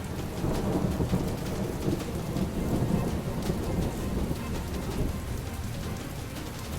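Steady rushing, rumbling noise of water, louder for the first few seconds, with no other distinct sound standing out.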